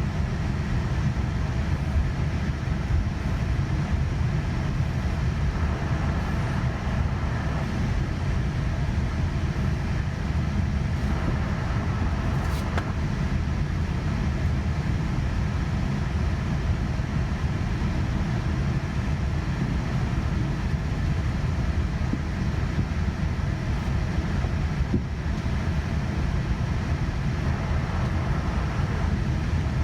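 Steady low rumble inside the cabin of a Boeing 787-9 on the ground before takeoff, with the engines running, faint steady engine tones and no change in level.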